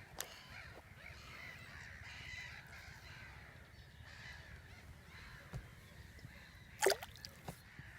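Faint bird calls carrying over the water, with a sharp click just after the start and one short, louder call or squeak about seven seconds in.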